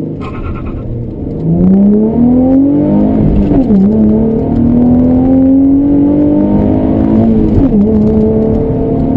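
2015 Chevrolet Camaro 1LT's V6 at full throttle through its dual-mode performance exhaust with the valves open, revving up hard and loud. The pitch drops sharply twice as the manual gearbox is shifted up, then climbs again.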